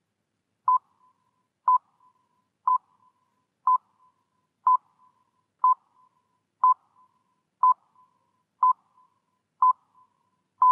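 Electronic beeps at a single steady pitch: ten short pips about one a second, then a longer beep begins right at the end.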